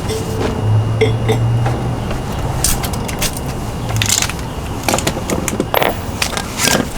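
Scattered clicks and knocks of things being handled, over a steady low hum that is louder for the first few seconds.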